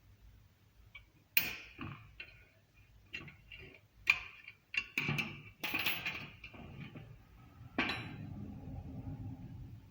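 Metal tools and parts clinking and knocking irregularly, each knock with a short ring, typical of hand work on a wheel hub and bearing. Near the end a steadier low rumbling noise follows a knock.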